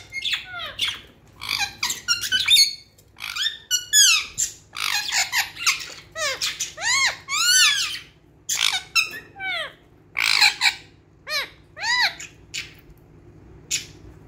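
Budgerigars chirping and squawking in quick, high-pitched, rising-and-falling calls, several a second, tapering off near the end.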